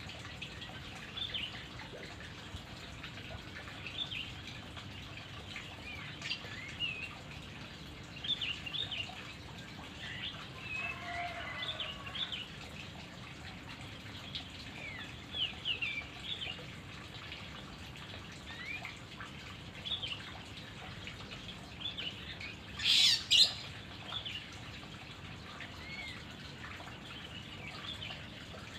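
Birds giving short, scattered chirps and calls over a steady background hiss, with one louder call about 23 seconds in.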